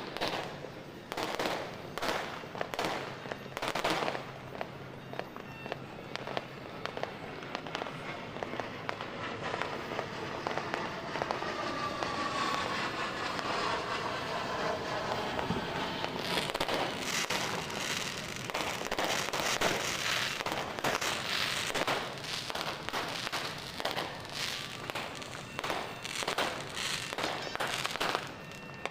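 New Year's fireworks and firecrackers going off in many sharp bangs, scattered at first and then in a dense, continuous barrage from about halfway through.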